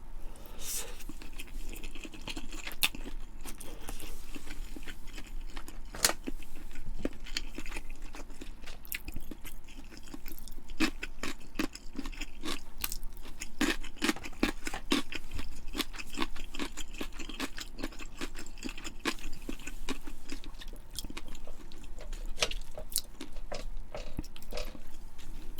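Close-miked chewing: a person eating with irregular wet mouth clicks, smacks and crunches.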